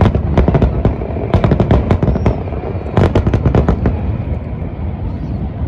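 Aerial fireworks bursting in rapid volleys: dense runs of sharp cracks and bangs over a low rumble, starting suddenly, with a heavy cluster about a second and a half in and another about three seconds in.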